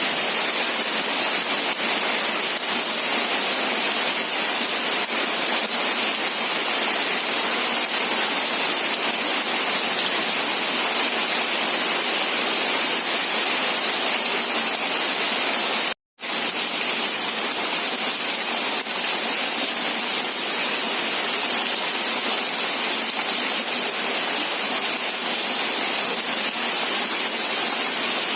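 Steady rain with an even, hissing wash and no distinct drops or thunder. It cuts out to silence for a fraction of a second about sixteen seconds in, then resumes unchanged.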